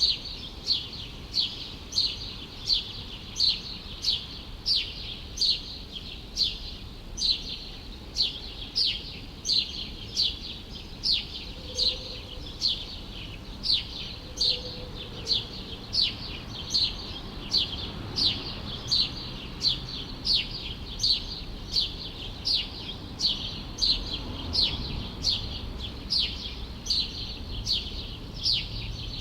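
A single bird calling over and over with a short, high chirp that sweeps downward, repeated evenly about three times every two seconds. A faint low rumble sits underneath.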